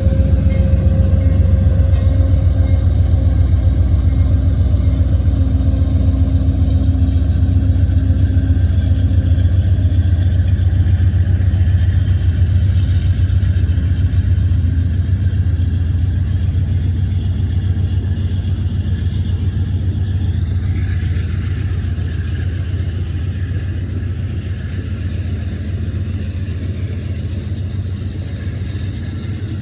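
Train locomotive engines rumbling deeply and steadily, slowly fading over the stretch, with a faint steady tone dying away about a third of the way through.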